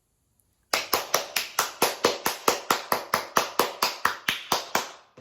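One person clapping hands steadily, about four to five claps a second, starting about a second in and stopping just before the end.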